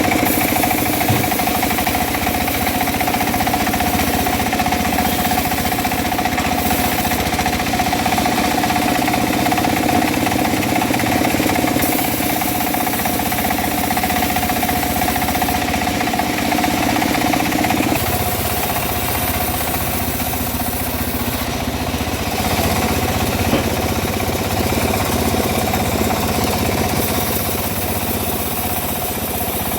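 Homemade engine-driven bandsaw mill running with a steady engine note. About eighteen seconds in, one of its tones drops away and the sound eases slightly.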